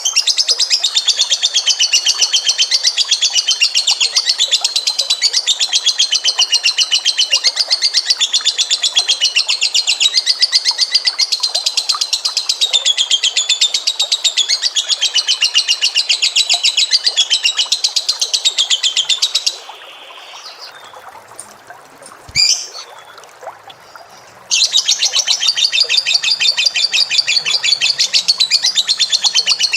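A cage bird singing a long, very fast, unbroken trill that shifts pitch every second or two. It stops about two-thirds of the way through, a single click sounds in the gap, and the trill starts again about five seconds later.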